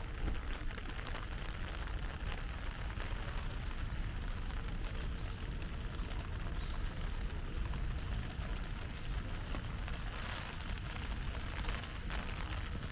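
Heavy rain falling steadily, a dense patter of drops with a cluster of sharper drop hits from about ten seconds in.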